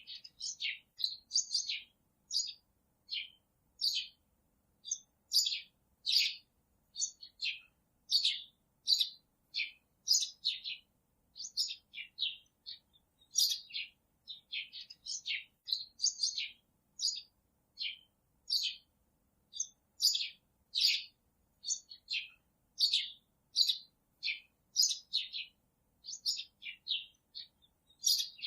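Small birds chirping: a steady run of short, high chirps, about two a second, with clean gaps between them.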